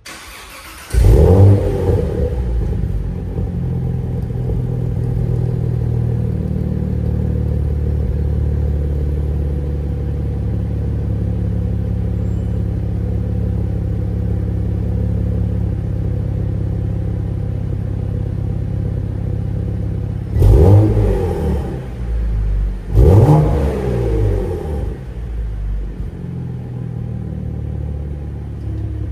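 Cadillac CT4-V Blackwing's 3.6-litre twin-turbo V6 through an AWE SwitchPath valved stainless-steel catback exhaust. It fires up with a loud flare about a second in and settles into a steady idle. Near the end come two quick throttle blips a couple of seconds apart, each rising and falling back to idle.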